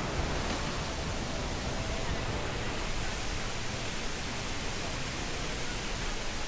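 Steady roar of a waterfall, an even rushing hiss of falling water with no change in strength.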